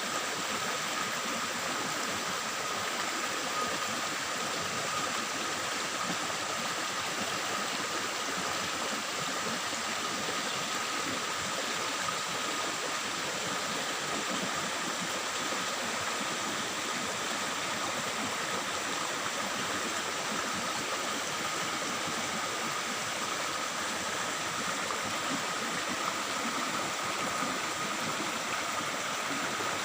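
Water of a forest stream running and babbling steadily over rocks, with a faint, steady high tone running through it.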